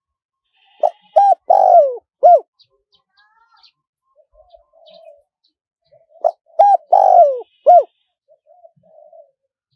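Spotted dove cooing: two phrases of four coos, about five seconds apart, each with a longer note that falls in pitch, and fainter soft coos in between.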